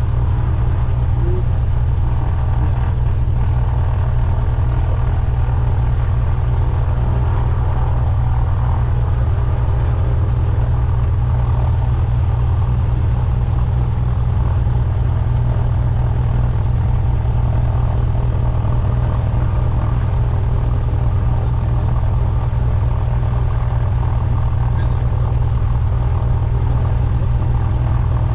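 Cessna 172's piston engine and propeller running at a steady speed, a loud even drone with no change in pitch.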